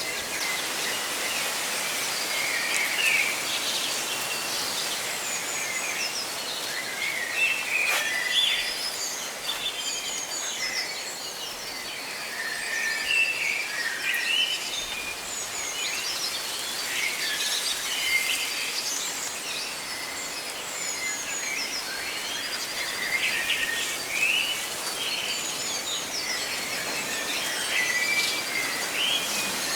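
Many birds chirping and singing in short, overlapping phrases over a steady rustle of leaves in the wind.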